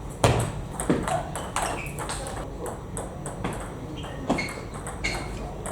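Table tennis ball in play during a rally: sharp, irregularly spaced clicks of the celluloid/plastic ball off bats and table, the loudest about a quarter of a second in.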